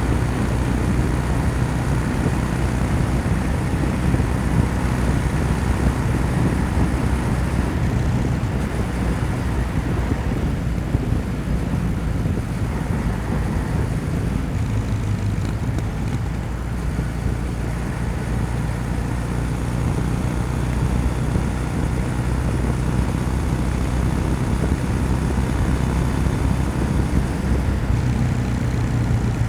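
Kawasaki W800's air-cooled parallel-twin engine running steadily under way, with a low exhaust note over wind hiss. The engine note shifts in pitch and the level dips briefly about halfway through.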